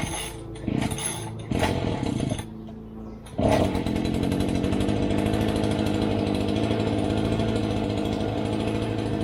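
Two-stroke string trimmer (weed whacker) engine sputtering in a few short bursts, then catching about three and a half seconds in and running steadily.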